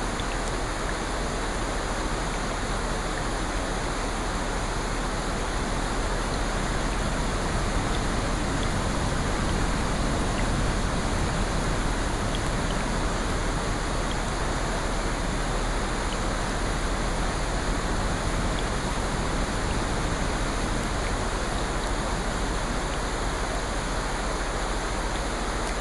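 Steady rain: a continuous even hiss with faint scattered drop ticks.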